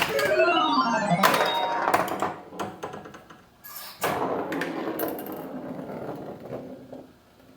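Bally Paragon pinball machine making electronic sound effects from its freshly repaired AS-2518-50 sound board, which the owner thinks still doesn't sound quite right: crossing rising and falling sweeps in the first second, then clicks and clatter from the machine, with a noisier sound running from about four seconds in.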